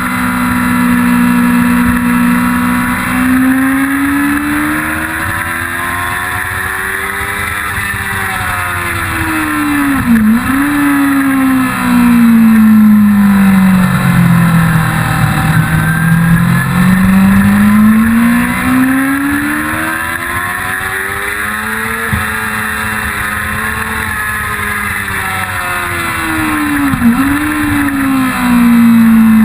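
1999 Yamaha YZF-R6 inline-four engine at racing speed, its pitch climbing and falling as the bike accelerates and slows for corners. Two sharp momentary dips, about ten seconds in and near the end, are quick gear changes.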